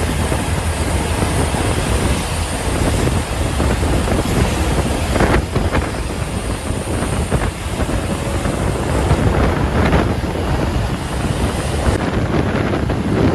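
Heavy road traffic on a highway: a truck engine's low rumble and tyre noise, with wind buffeting the microphone and louder swells as vehicles pass about five and ten seconds in.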